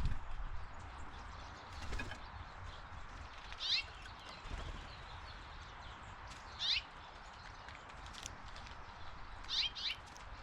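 A bird giving short, sharp chirps that drop quickly in pitch, four in all, the last two close together near the end. There are a few faint knocks and taps between them over steady outdoor background noise.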